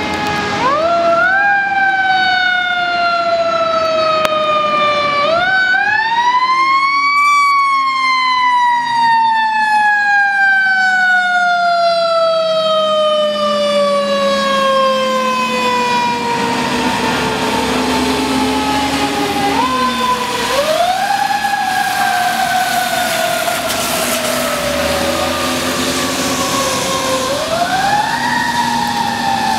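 Fire engine siren winding up quickly and then coasting slowly down in pitch, four wind-ups in all, the longest coast-down lasting about twelve seconds. The truck's engine is heard under it, with engine and road noise growing louder in the second half.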